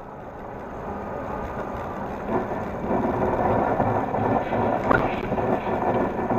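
Vehicle on the move: a steady rumble of engine and road noise that grows louder about two seconds in, with a single brief click partway through.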